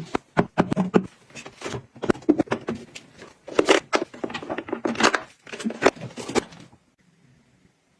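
Quick clicks, taps and knocks of small containers and products being handled and set down during organising, stopping abruptly about two-thirds of the way through.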